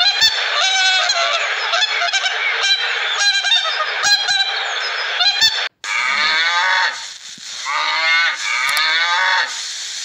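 A flock of geese honking repeatedly over a steady hiss, which stops abruptly a little over halfway through. Then cattle mooing, several short calls in a row.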